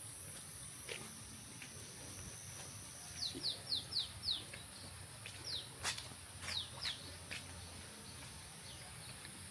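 A bird calling in quick runs of short, falling whistled notes, about five in a row, then a few more a second or two later, over a steady high hiss.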